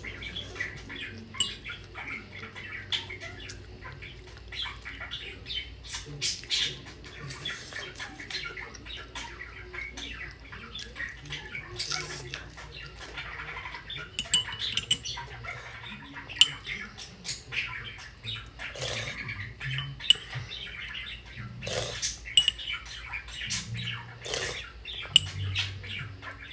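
Close-up mukbang eating sounds: a cracker being crunched and chewed, with irregular wet mouth clicks and a metal spoon clinking in a ceramic mug. A pet bird chirps now and then.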